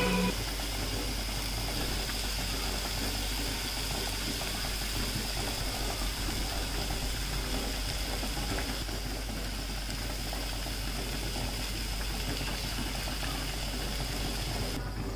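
Diced vegetables sizzling in oil in an aluminium pressure-cooker pan, a steady frying hiss.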